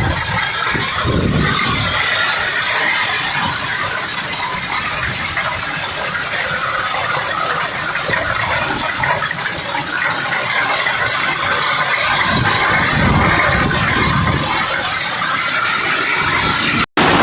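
Violent hail pelting down: a dense, steady rattle of countless hailstones striking.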